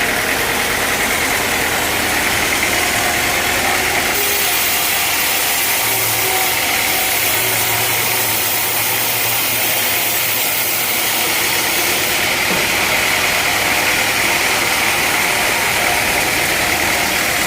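Sawmill engine running steadily. About four seconds in, a brighter high hiss joins it, then eases back about twelve seconds in.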